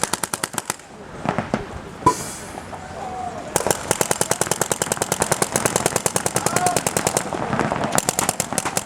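Paintball markers firing in rapid strings, more than ten shots a second. A burst at the start breaks off into a lull with a few single shots, and unbroken rapid fire takes up again about three and a half seconds in.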